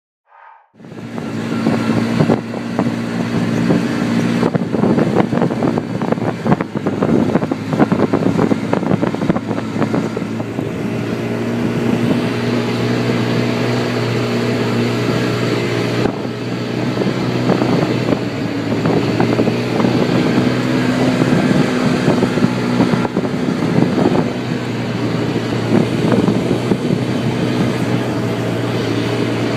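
Engine of a four-person ATV running steadily under way, with many short knocks and rattles over the drone. It starts abruptly about a second in.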